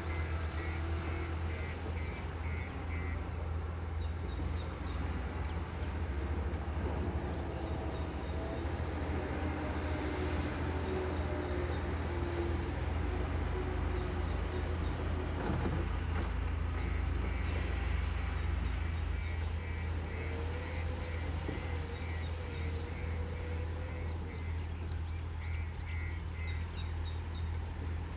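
Heavy diesel engine running steadily, with a deep low hum throughout. A short high chirping repeats about every two seconds, and a quick run of beeps comes in a little past halfway.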